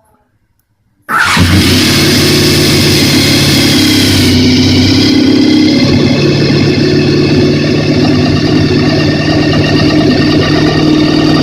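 Honda VFR750R (RC30) V4 motorcycle engine coming to life suddenly about a second in, then running steadily and loudly during an engine start check.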